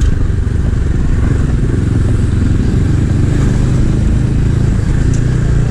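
Small-displacement 250 cc motorcycle engine running steadily under way, with a dense low rumble of road and wind noise.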